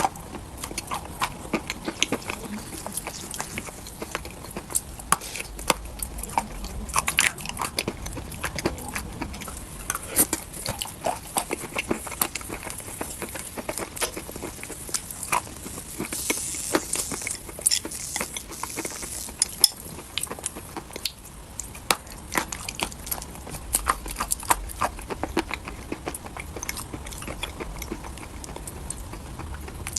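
Dry chalk being bitten and chewed up close, with many sharp crunches and crackles throughout and a burst of gritty crumbling about halfway through.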